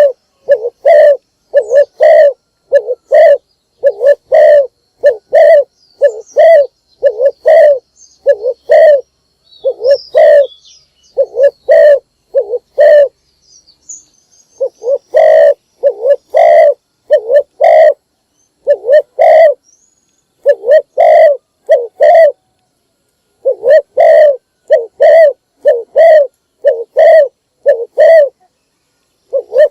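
Spotted dove cooing loudly: short coos repeated about two a second in long runs, breaking off for a couple of seconds near the middle. Faint high chirps of another bird come through about a third of the way in.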